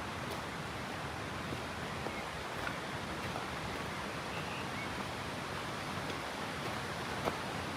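Steady rushing of flowing water, with a couple of faint clicks near the end.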